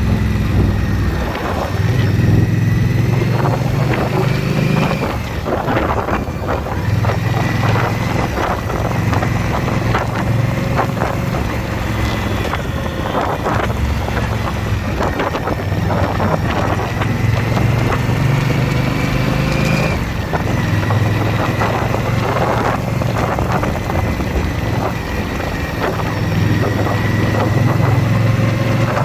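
Motorcycle engine running on the road with wind noise on the microphone. The engine pitch rises and falls with throttle and gear changes.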